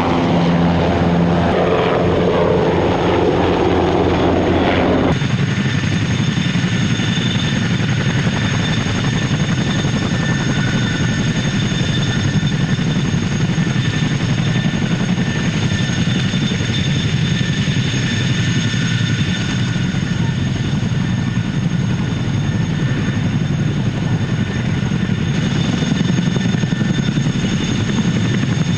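Boeing CH-47 Chinook tandem-rotor helicopter running, with a steady rush of rotor and turbine noise and a faint high whine. For the first five seconds a pitched hum sits on top, falling in pitch, then the sound changes abruptly.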